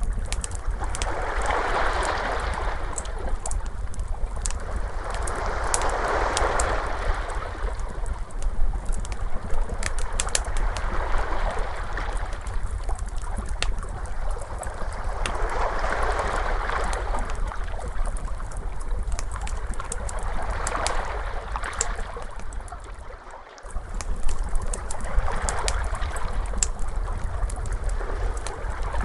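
Ocean waves washing in one after another, a swell about every four to five seconds, mixed with the sharp pops and crackles of a wood fire over a steady low rumble. The sound briefly drops away about three-quarters of the way through, then returns.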